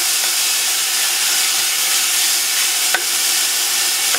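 Minced onion sizzling in hot oil in a stainless steel pot as it is stirred with a spatula, with one click of the spatula on the pan about three seconds in.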